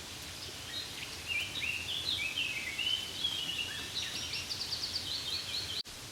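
Steady rain hiss with a songbird singing over it: a quick run of chirps and short trills. Everything drops out abruptly for an instant near the end, at a splice in the track.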